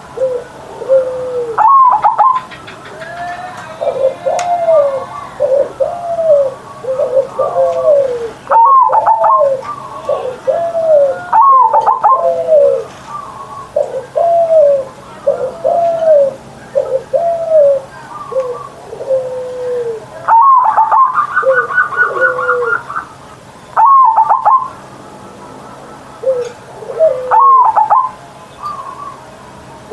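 Zebra dove (perkutut) singing its cooing song over and over: about six phrases, each opening with a loud, rough note and running on into a string of short falling coos. About two-thirds of the way through, one phrase carries a quick run of higher, evenly spaced notes.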